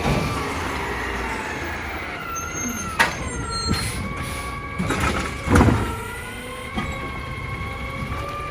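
Heil Durapack Rapid Rail side-loader garbage truck working, with a steady whine that wavers a little in pitch. There is a sharp clank about three seconds in, and thuds about halfway through and again near the end.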